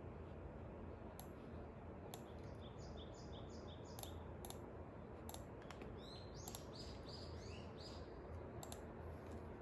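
A small bird chirping in short repeated notes: a run of about four about two and a half seconds in, then a group that steps downward around six to seven seconds in. Scattered light clicks and a low steady background hum run under it.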